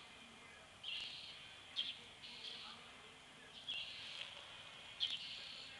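A bird calling repeatedly: high, buzzy calls of about a second each, every second or two, with a couple of short sharp chirps among them.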